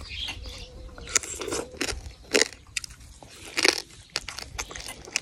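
Biting into and chewing a whole cooked egg-laden frog from bamboo-shoot curry: irregular wet mouth smacks and crunches, a few sharper ones in the second half.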